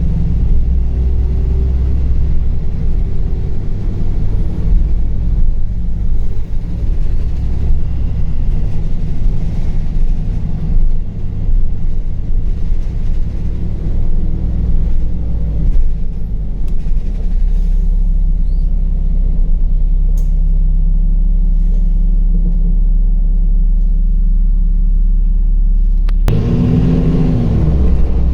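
LiAZ 5292.65 city bus under way, a steady low engine and road rumble heard from inside the cabin. About 26 seconds in the sound changes suddenly, with a short tone that rises and falls.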